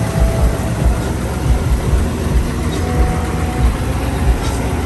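Low, steady rumble of a vehicle on the road heard from inside the cab, with a regular low thump about twice a second.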